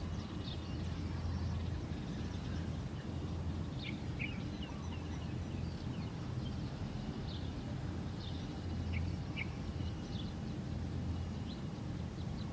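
Short high bird chirps here and there over a steady low hum.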